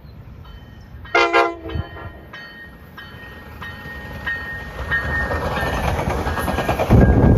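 NCTD Coaster commuter train: the horn gives one short blast about a second in, then the bilevel coaches pass close by with rising wheel and rail noise and faint regular clicks. A loud low thump comes near the end.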